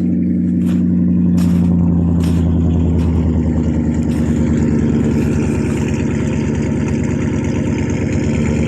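1993 Ford F-150's 5.0 (302) V8 idling steadily, heard at the tailpipe. The exhaust runs through an 18-inch glass pack with no catalytic converters, and it is not real loud.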